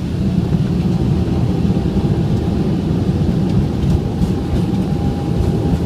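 Boeing 777 rolling out on the runway after touchdown, heard from the flight deck: a loud, steady low rumble of engine and wheel noise.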